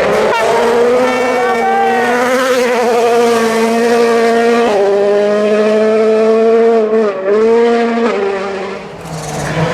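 World Rally Car's turbocharged four-cylinder engine running hard at high revs, its note stepping down at gear changes around the middle and fading near the end.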